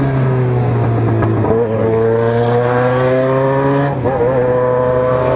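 600 cc motorcycle engine pulling under throttle, its pitch climbing steadily, then easing off briefly about four seconds in before pulling again.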